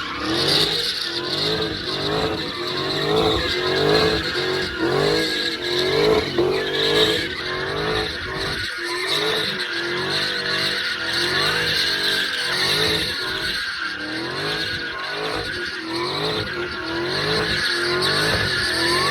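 Dodge Charger Hellcat's supercharged 6.2-litre V8 held at high revs while doing donuts, its note rising and falling over and over, with tyres squealing and skidding on the pavement.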